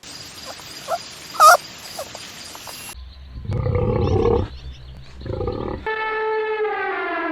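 Animal calls from several cut-together clips: a few short high chirps, then two low, rough calls, then one long pitched call that falls in pitch.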